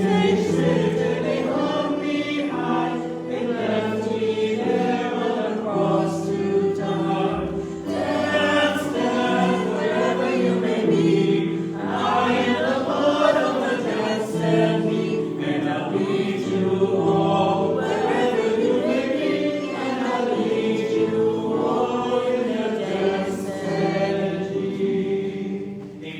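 Church congregation singing a hymn together, with held notes.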